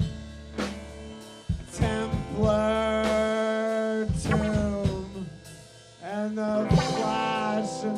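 A live band playing, with pitched instrument lines that slide in pitch and sharp drum hits. The music falls almost away just before six seconds in, then comes back in full with a hit.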